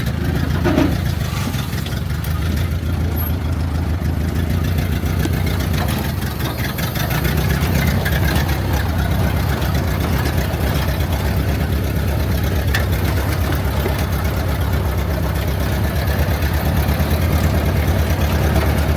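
1929 Ford Model A's four-cylinder flathead engine running at low speed with a steady, even chug as the car is driven over a rough trail, easing off briefly about six seconds in.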